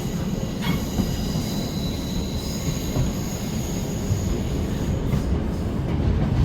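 Passenger train running, heard from on board: a steady low rumble with high-pitched squeals from the wheels and a few clicks as the wheels pass over the rail.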